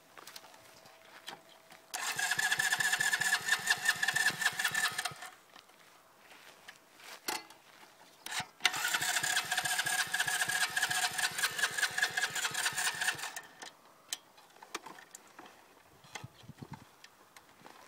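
125cc dirt bike engine catching and running fast for about three seconds, then dying; it catches again a few seconds later, runs about five seconds and dies again: the engine keeps stalling out.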